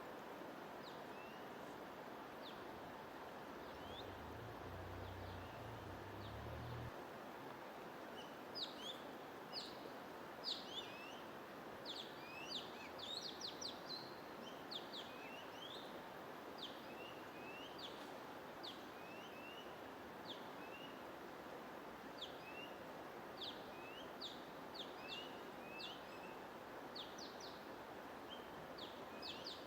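Small birds chirping in many short, quick notes that sweep up and down in pitch, sparse at first and much busier about eight seconds in, over a steady rushing hiss.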